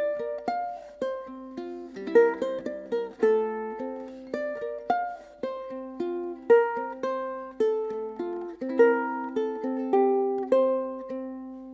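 Solo ukulele played fingerstyle: a plucked melody over low accompanying notes, with a quick run of chords about two seconds in.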